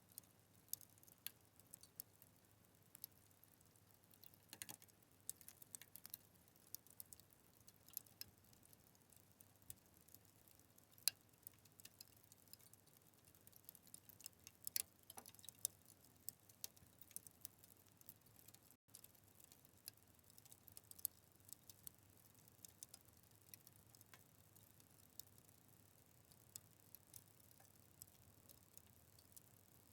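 Wood fire crackling: irregular sharp pops and snaps, several a second, some much louder than others, over a faint low hiss.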